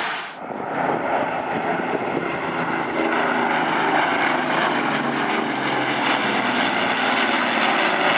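Airplane engine running steadily, a continuous even drone with a low hum.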